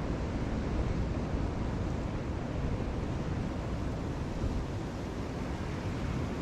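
Steady rush of sea waves, with wind rumbling on the microphone.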